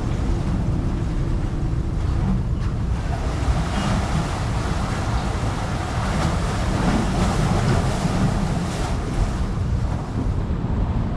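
Wind buffeting the microphone: a steady, loud low rumble with a rushing noise above it.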